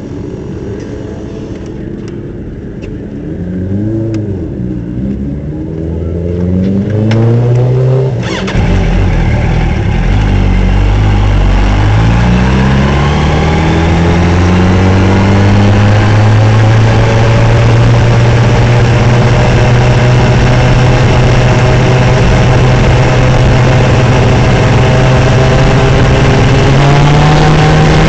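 Racing motorcycle's engine heard from on board. It rises and falls briefly a couple of times, then pulls away hard about eight seconds in, climbing through the gears. It then holds a long steady note and rises again near the end.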